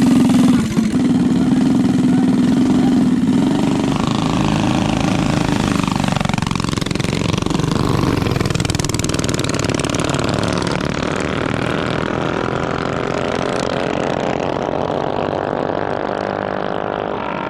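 Mini bike engines running and revving, loudest at first and slowly fading, with an engine note that dips and climbs again about six seconds in.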